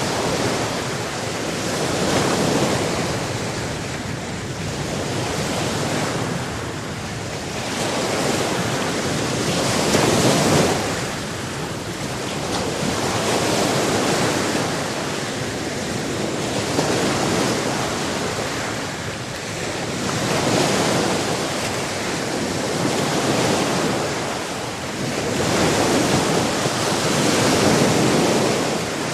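Sea waves breaking on a shore, the surf swelling and falling back every three to four seconds.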